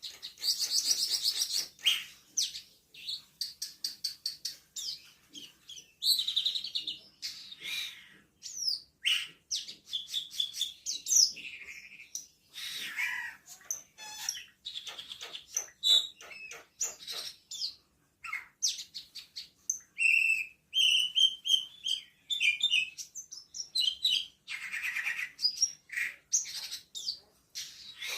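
Cucak keling (camperling) songbird singing continuously: a rapid, varied stream of chirps, whistled glides and trills with only brief pauses.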